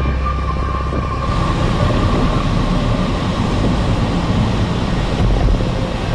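Steady road and wind noise of a moving car, heard from inside. The rushing noise grows fuller about a second in.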